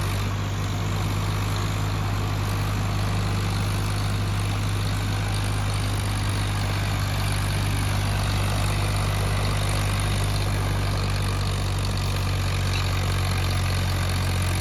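Tractor diesel engine running at a steady, unchanging speed, a loud constant low hum with no revving.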